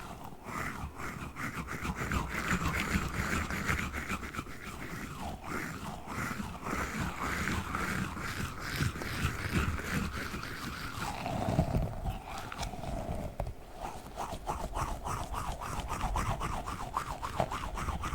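Small squishy octopus toy being squeezed and worked in the hands, giving a continuous run of rapid squelchy crackles. The texture changes about eleven seconds in.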